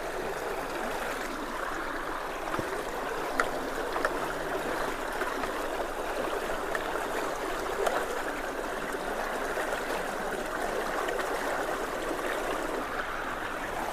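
Swollen creek water rushing steadily through a partly blocked culvert, with a few small knocks in the flow.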